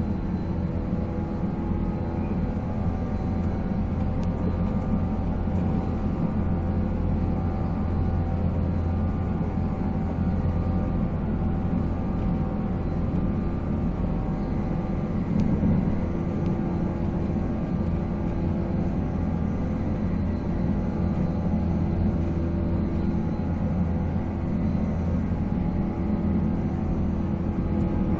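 JNR 485-series electric train running at speed: the MT54 traction motors and gearing hum as steady tones over the low rumble of wheels on rail.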